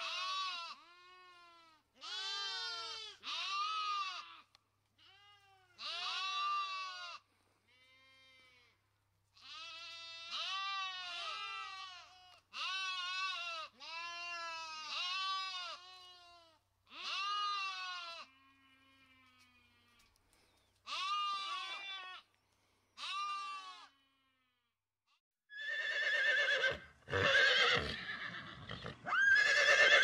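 Sheep bleating over and over, a long run of short wavering bleats each about half a second to a second long. Near the end a horse whinnies loudly.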